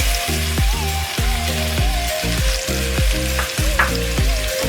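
Thinly sliced onions frying in hot oil and butter, sizzling steadily. Background music with a regular beat plays underneath.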